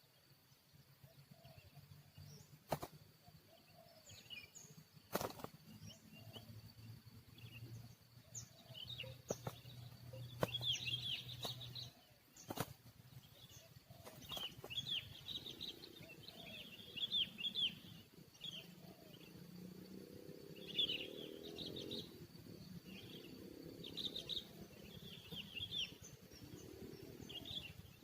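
Wild birds chirping in quick, busy bursts, more densely after the first third, with a few sharp clicks in the first half.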